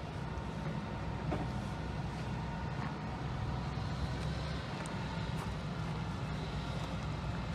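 Steady low drone of a vehicle driving along, engine and road noise, with a few faint clicks.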